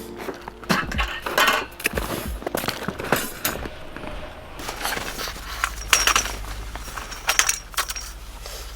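Metal camping gear being handled: irregular light clinks and rattles, with two short ringing chinks about six and seven seconds in.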